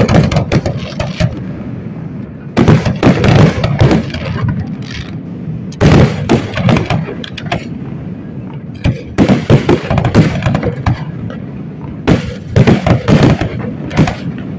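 Aerial fireworks shells bursting in volleys of several rapid sharp bangs each, about every three seconds, with a steady background din between volleys.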